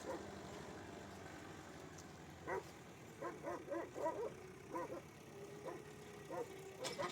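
A dog barking, a quick series of short barks over a faint steady hum.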